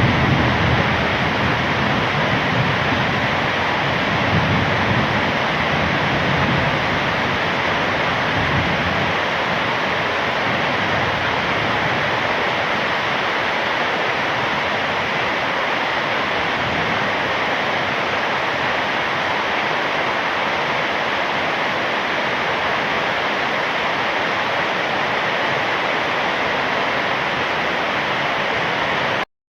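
Heavy rain pouring steadily, a dense, even hiss, with low rumbles of thunder fading out over the first several seconds. The sound cuts off abruptly near the end.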